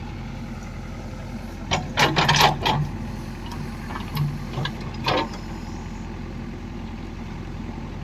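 A farm machine's engine running steadily. A few short, louder sounds cut in around two seconds in and again about five seconds in.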